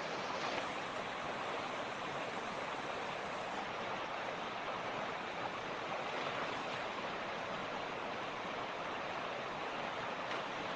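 Creek water rushing and burbling over rocks: a steady, even roar of flowing water.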